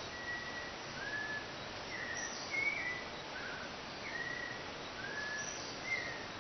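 Forest birds calling: short whistled notes, some sliding slightly up or down, repeated about once a second over a steady background hiss.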